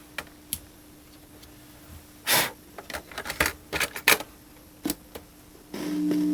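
Clicks and clunks of a vintage boombox's buttons and controls being worked, with a short rushing noise about two seconds in. Near the end a steady, loud electronic tone starts up from its speakers.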